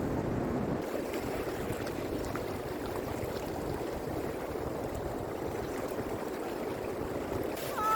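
Steady rushing of water, a constant noise with no distinct strokes; its low rumble eases slightly about a second in.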